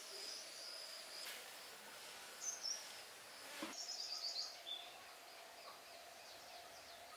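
Faint outdoor ambience with small birds chirping: a short high chirp about two and a half seconds in, then a quick run of chirps falling in pitch around four seconds in, with a couple of faint knocks.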